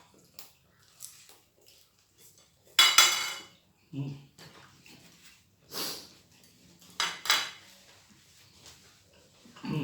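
Cutlery clinking and scraping against plates and bowls as people eat: a few separate clatters with a short metallic ring, the loudest about three seconds in.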